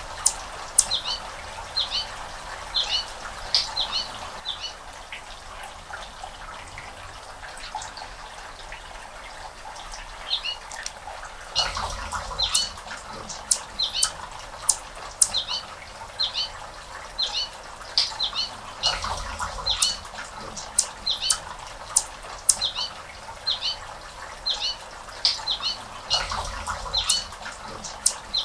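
A small bird calling steadily with short, sharp, high chirps, roughly two a second. Three brief low rumbles come in about midway, later, and near the end.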